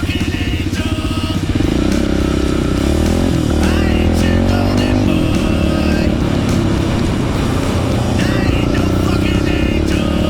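Pit bike engine running while riding, picking up about a second and a half in and rising and falling in pitch through the middle as the throttle changes. Music plays over it.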